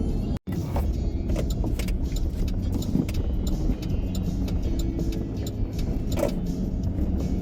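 Vehicle driving, with steady engine and road rumble heard from inside the cab and a few light rattles; the sound drops out for an instant just under half a second in.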